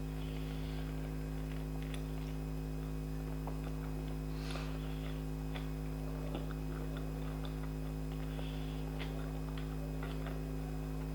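A person chewing and eating, with scattered small mouth clicks and smacks, over a steady low electrical hum.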